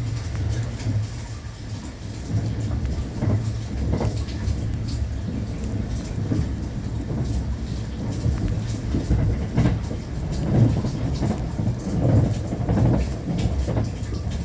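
Running noise of a JR West Thunderbird limited express electric train heard from inside the carriage: a steady low rumble with scattered knocks from the wheels over the rails.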